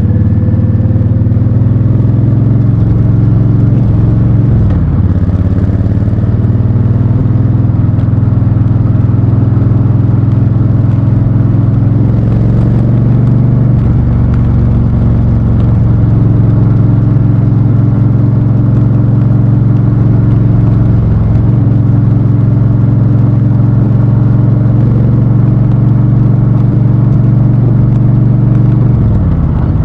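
Honda Fury's 1312 cc V-twin engine running steadily under way, heard from the rider's position. The engine note drops and climbs back a few times: about four seconds in, around twenty seconds in, and near the end.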